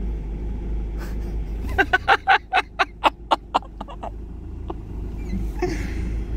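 Ford Mondeo's engine running with a steady low rumble, heard inside the car's cabin. About two seconds in comes a quick run of about ten short pitched calls, roughly four a second, louder than the engine.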